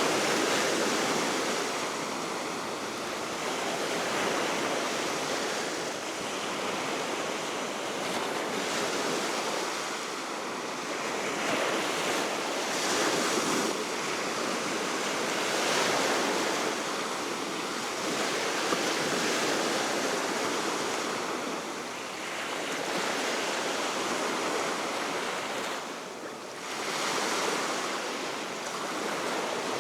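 Baltic Sea waves breaking and washing ashore, swelling and easing every three to four seconds, over a steady wind.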